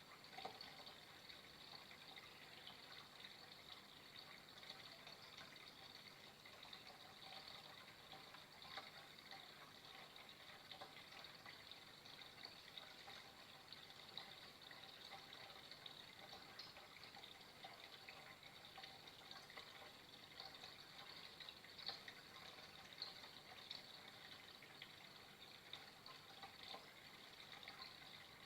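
Faint, steady flowing water: a continuous trickle with small splashy flickers and no pauses.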